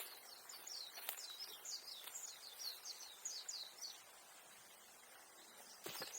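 A small bird singing a quick run of about a dozen high notes lasting about four seconds, with a faint knock about a second in and another near the end.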